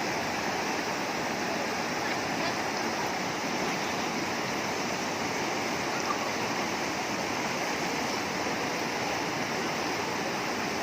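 Fast-flowing river water rushing steadily, an even unbroken sound of a river running over rapids.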